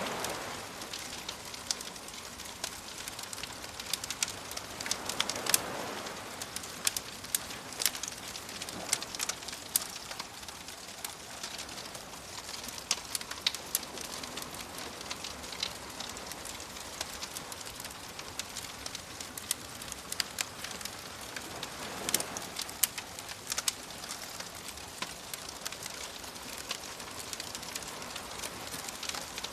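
Bonfire crackling with frequent sharp pops over a steady hiss, mixed with soft waves washing in; the waves swell up about five seconds in and again just past twenty seconds.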